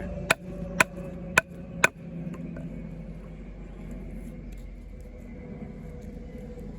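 Four sharp taps about half a second apart: a baton knocking on the spine of an Off-Grid Caiman XXL bowie knife lodged in a piece of wood. A faint steady hum follows.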